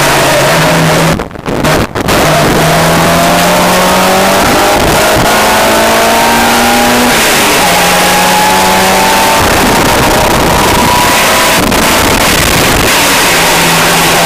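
A car's engine heard from inside the cabin under hard acceleration on track. The revs climb, drop suddenly at an upshift about halfway through, then climb again. There is a brief lift off the throttle about a second in.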